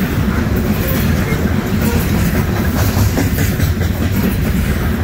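Loaded steel coal hopper cars rolling past close by: a steady heavy rumble of wheels on rail, with occasional clicks at the rail joints.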